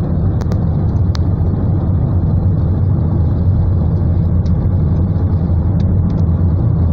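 Steady low rumble of a car driving, heard inside the cabin, with a few scattered sharp ticks.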